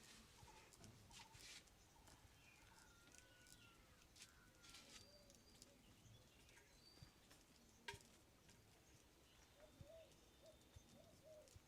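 Very quiet background with faint bird calls: a few thin whistles and chirps in the middle, then a run of short repeated low calls near the end. A single sharp click comes about eight seconds in.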